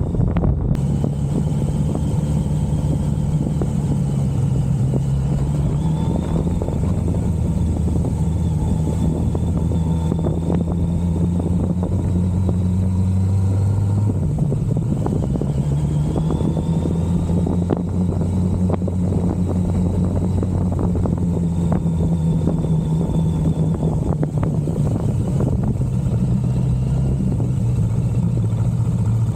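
1985 Suzuki GSX-R750F's inline-four engine running while the bike is ridden, its note holding fairly steady with a shift in pitch about halfway through.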